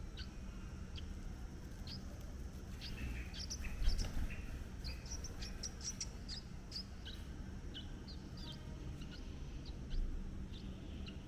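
Small birds chirping: many short, high chirps, coming thickest in quick runs around the middle, over a steady low background rumble. Two soft low bumps, about four seconds in and near the end.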